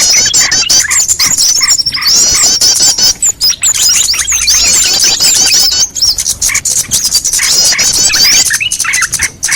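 Bird-lure recording of many small birds chirping at once: a dense, loud chatter of rapid, repeated high chirps that keeps on without a break.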